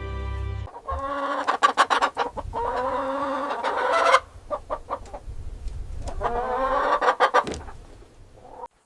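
Chickens clucking: quick runs of short clucks mixed with longer, drawn-out calls, cutting off abruptly near the end.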